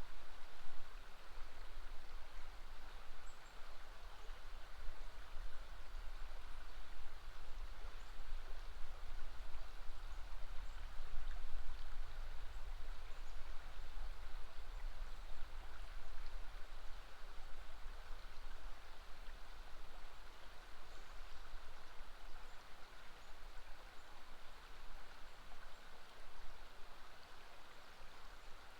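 River water flowing past a bend, a steady rushing with no breaks.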